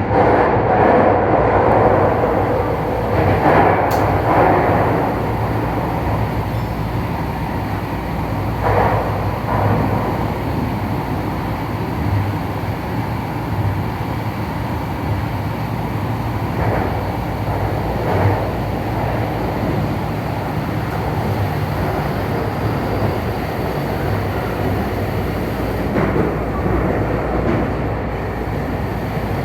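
Tokyu Den-en-toshi Line electric train running, heard from inside the lead car: a steady rumble of wheels on rail over a low motor hum, with a few brief louder rattles.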